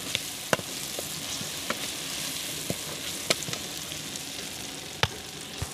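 Onion-tomato masala sizzling in a metal wok while a steel spoon stirs it. The spoon clinks sharply against the side of the pan several times.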